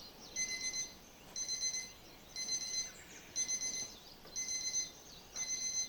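Electronic alarm beeping: a short cluster of rapid, high-pitched beeps repeating about once a second.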